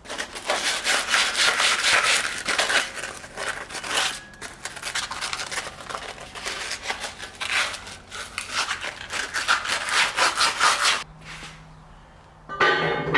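Rapid, rhythmic rasping strokes of a hand tool being scraped back and forth, stopping about eleven seconds in.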